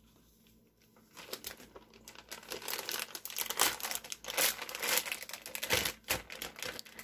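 Thin plastic bag crinkling and rustling as it is handled, starting about a second in and going on in dense, irregular crackles until near the end.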